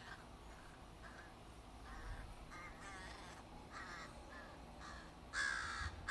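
Crows cawing: a string of short, harsh calls repeated every half second or so, the last ones louder.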